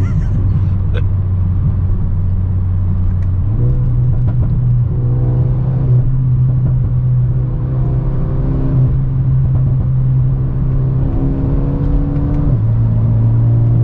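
Engine note of a Mercedes-AMG A35 saloon's 2.0-litre turbocharged four-cylinder, Stage 1 tuned with the rear exhaust box removed, heard from inside the cabin on a steady cruise. The drone steps up in pitch a few seconds in as the revs rise. Near the end it drops back with an upshift from fourth to fifth gear.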